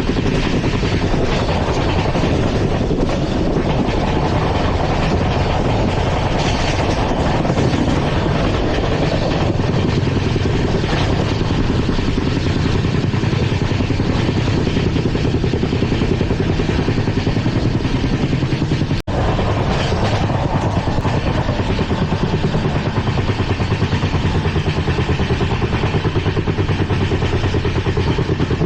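LHB passenger coach running along the track, heard from on board: a steady loud rumble and rattle of the wheels and running gear on the rails. The sound cuts out for an instant about two-thirds of the way through.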